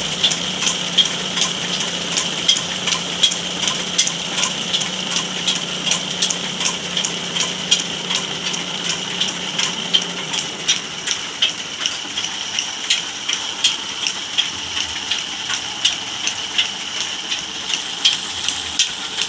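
A woodworking machine running with a steady high whine and a regular ticking, about two to three ticks a second; a low hum underneath drops away about halfway through.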